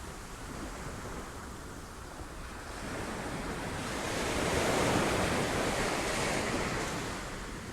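Sea waves breaking on rocks: a steady wash of surf that swells to one wave's peak about five seconds in and then recedes, with some wind noise on the microphone.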